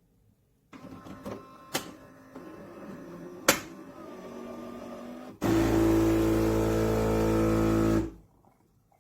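Philips 3300 Series automatic espresso machine at work: a quieter mechanical running sound with two sharp clicks, then about halfway through a loud, steady humming drone for under three seconds that cuts off suddenly.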